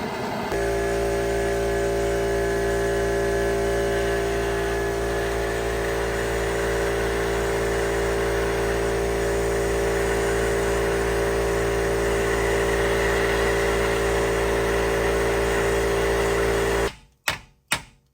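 A steady drone with several fixed tones that never varies, cutting off abruptly near the end, followed by a few sharp hammer strikes.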